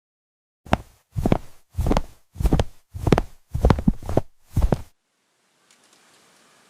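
A series of seven dull thumps, evenly spaced a little over half a second apart, stopping about five seconds in; a faint hiss follows near the end.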